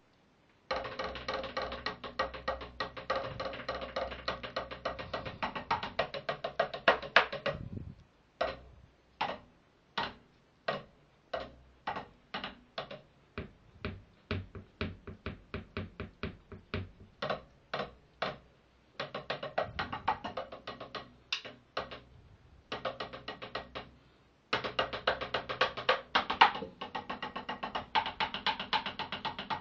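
DW practice drum kit with rubber pads being played: fast runs of dull strikes, then about ten seconds of slower single hits, two or three a second, before the fast playing resumes.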